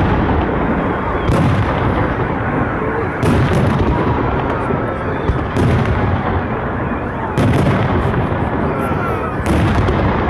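Festive fireworks salute: five heavy booms of shells bursting, about two seconds apart, over a continuous rumble and crackle.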